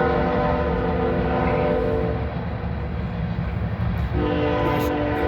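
Train horn sounding two long blasts, each a chord of several steady tones: the first lasts about two seconds, and the second starts about four seconds in. A steady low rumble from the passing train runs underneath.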